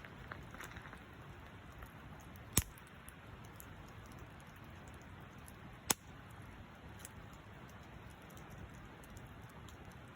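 Wood campfire crackling, with scattered small ticks over a steady hiss and two sharp pops, about two and a half and six seconds in.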